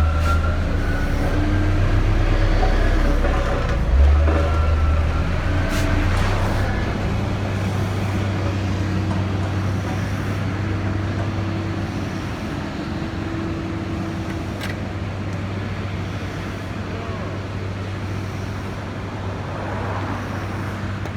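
A motor vehicle or machine engine running steadily at an even pitch. A heavier low rumble in the first four seconds ends with a short loud knock about four seconds in, and a few sharp clicks follow.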